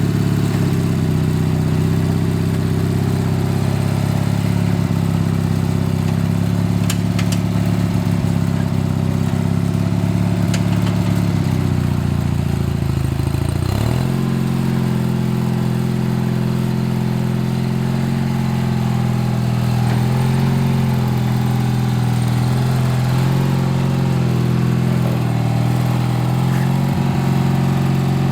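Craftsman LT4000 lawn tractor's vertical-shaft engine running steadily. About halfway through, its pitch sags as it takes load, then it settles at a slightly lower, steady speed.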